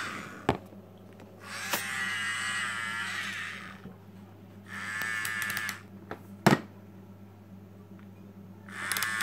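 Play-Doh toy dentist drill whirring in three bursts, a wavering whine, as it bores into play-dough teeth. Two sharp plastic clacks punctuate it, the louder one a little after the second burst.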